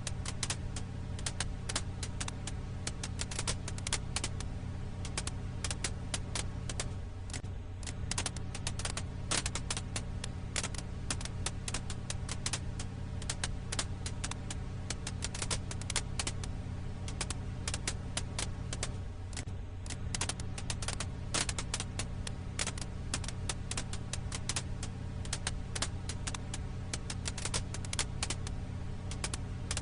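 Wood fire crackling: a dense, irregular patter of small sharp pops and snaps over a steady low hum.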